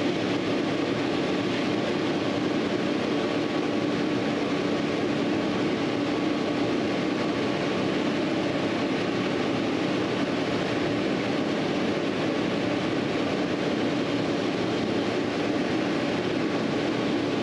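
Steady mechanical hum, an unbroken drone with a fixed low tone running under it.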